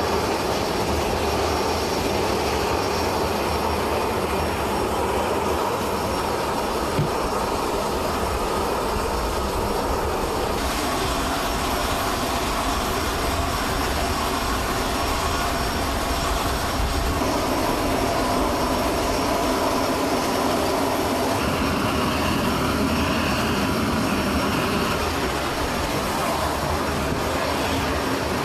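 Steady jet aircraft engine noise running continuously, its tone shifting slightly about ten seconds in and again around seventeen seconds.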